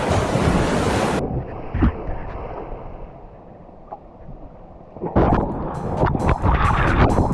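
Water splashing and sloshing with wind noise on the microphone: a loud rush in the first second, a quieter stretch, then choppy splashing and knocks from about five seconds in.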